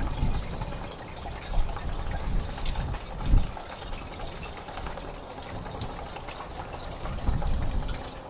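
Diesel fuel pouring steadily from a 5-gallon jug into a two-stroke dirt bike's fuel tank as it is topped off, with a couple of low thumps along the way.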